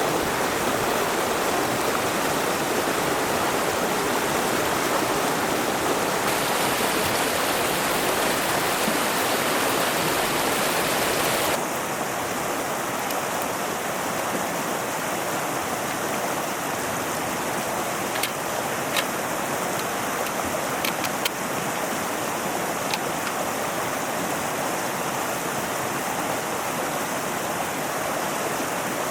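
Mountain river flowing: a steady rushing of water that drops a little in level about twelve seconds in, with a few faint clicks later on.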